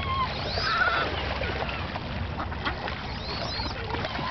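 Mixed flock of ducks, geese and gulls calling over one another: short high arching cries, a wavering call about a second in, and more high cries near the end.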